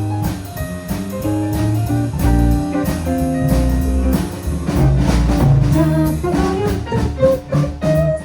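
Band playing jazz: a guitar playing a melodic line of single notes over drum kit and a low accompaniment.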